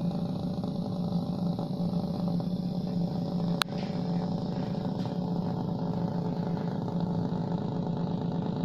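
A small motor running steadily at an even speed, with a single sharp click about three and a half seconds in.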